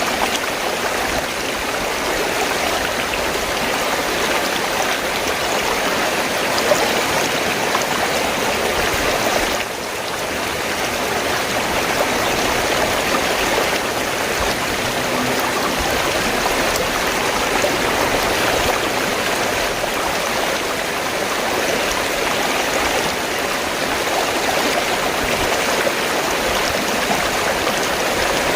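River water flowing in a steady rush, dipping briefly in loudness about ten seconds in.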